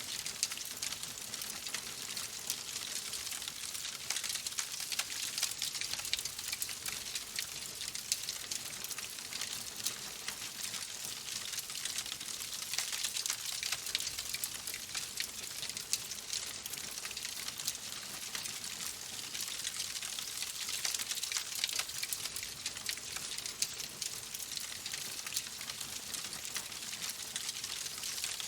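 Fireplace fire crackling steadily: a dense stream of small pops and snaps over a soft hiss.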